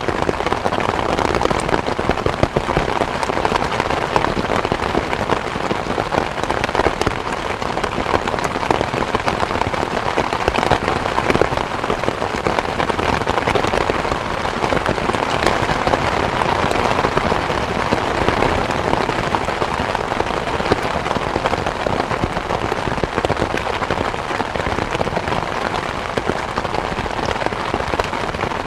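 Steady rain: a dense, even patter of countless drops striking a surface.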